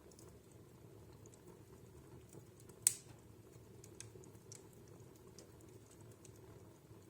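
Wood fire crackling in a fireplace: a faint steady low rumble of burning logs with scattered small crackles, and one sharp pop about three seconds in.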